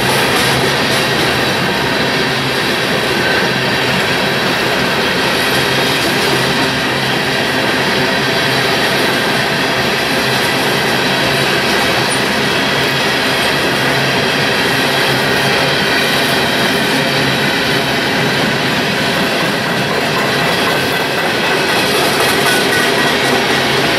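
Freight train of hopper cars rolling over a steel girder bridge: a loud, steady noise of wheels on rails, with thin high squealing tones from the wheels.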